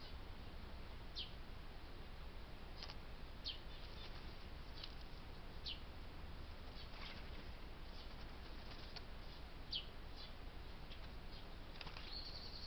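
Faint, short, sharp bird calls, each a quick falling chirp, repeating irregularly about every one to two seconds over a steady low hum. A thin held whistle comes in near the end.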